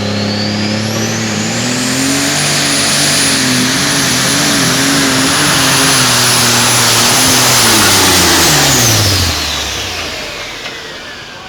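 A turbocharged diesel pulling engine running at full power under load. Its pitch steps up about a second and a half in and holds with a wavering note, then winds down near the end as the throttle comes off. A high turbo whine climbs, holds, and falls away along with it.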